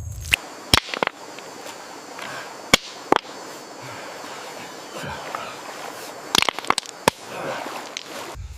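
Irregular sharp knocks and cracks, a few near the start, two around three seconds in and a quick cluster near the end, over a faint steady noise.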